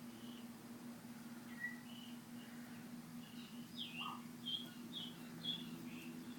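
Birds chirping in short, high notes, a few scattered at first and then about two a second in the second half, over a steady low hum.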